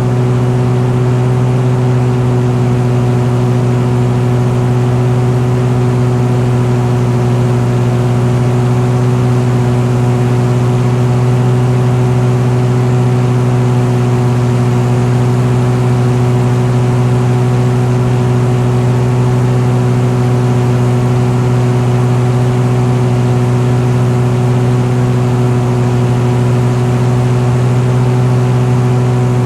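Vehicle engine running at a steady, unchanging speed, heard from on board: one constant low note with higher overtones over an even rushing noise.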